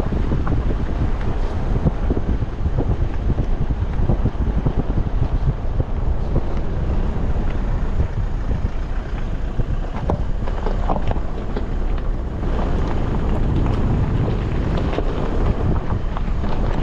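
Wind buffeting the microphone: a loud, dense, crackling rumble with no break.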